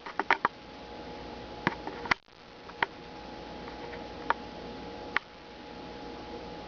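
Squirrel eating, its teeth and paws working the food in sharp clicks: a quick run of four at the start, then single clicks every second or so. Under them runs a steady hiss with a faint hum.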